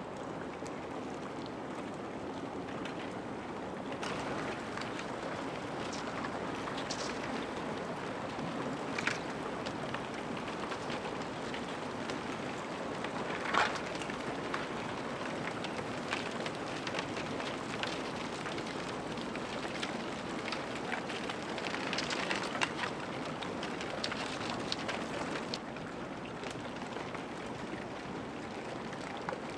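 Broken sheets and blocks of harbor ice grinding against each other as ships push through it, giving a steady rushing background scattered with sharp crackles, clicks and tinkles.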